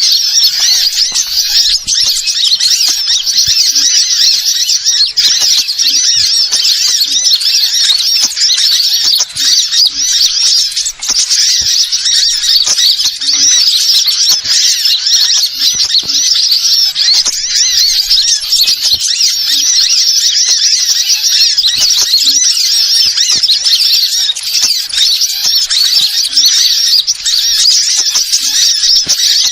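Small birds chirping and twittering without pause, a dense, high-pitched chatter of many overlapping calls, played as a lure-bird recording for attracting wild birds.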